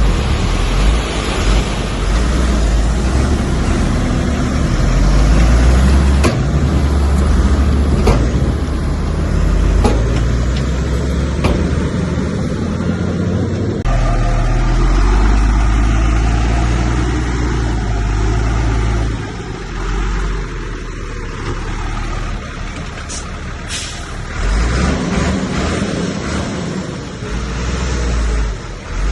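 Heavy diesel earthmoving machinery running hard, its deep engine rumble rising and falling with the load, with a few sharp knocks. The engine eases off about two-thirds of the way through.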